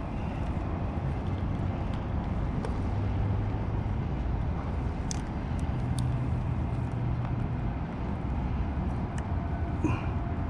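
Steady low outdoor rumble with a faint engine-like hum that swells twice, and a few short sharp clicks.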